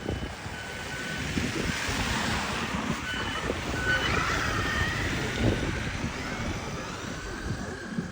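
Wind buffeting the microphone with a steady rushing rumble. A few short high beeps sound in the first half, and a wavering whine rises and falls after the middle.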